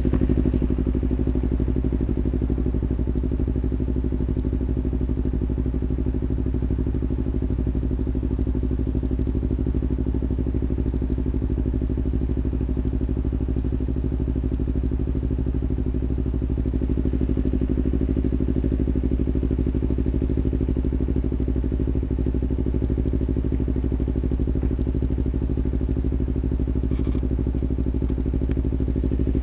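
Kawasaki Ninja 250R's parallel-twin engine running at a steady speed, its pitch holding even with no revving.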